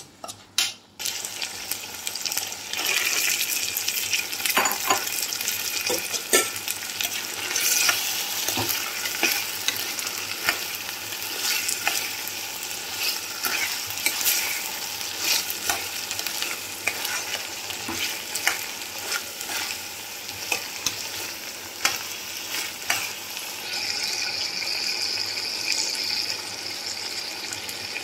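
Onions and chicken pieces sizzling in hot oil in a nonstick pan, a steady hiss broken by many sharp clicks and scrapes of a metal spatula stirring against the pan. Near the end the hiss turns a little higher and steadier.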